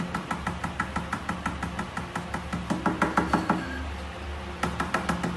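Rapid knocking, about seven sharp taps a second, running for nearly four seconds, then a short second burst near the end.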